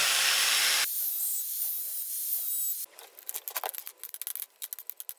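A power tool's loud hissing run stops about a second in, leaving a softer hiss. From about three seconds in comes a string of light, sharp clicks.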